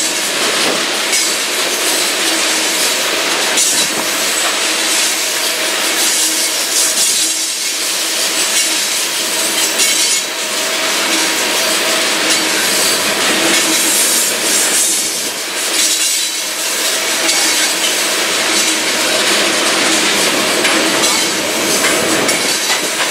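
A train rolling past, its steel wheels on the rails making a loud, steady rushing noise for the whole stretch, with a faint steady tone running through it.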